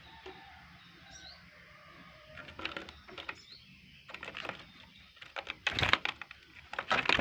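Oriental magpie-robin and its young at feeding time: a few short high chirps among clicks and rustling, with two loud bursts of flapping or knocking near the end.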